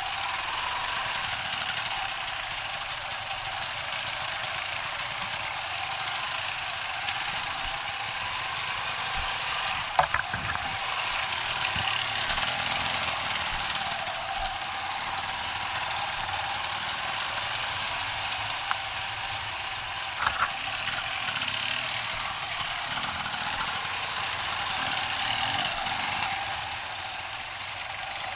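Off-road motorcycle engine running with a fast, steady beat. There are short knocks about ten and twenty seconds in.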